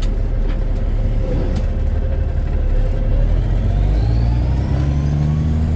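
Kenworth K100 cab-over's diesel engine running under way, heard from inside the cab as a loud low rumble. About three seconds in, its pitch climbs steadily as it accelerates.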